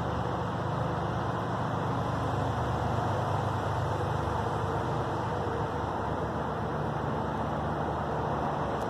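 Steady outdoor background rumble and hiss, unchanging throughout, with a low hum underneath.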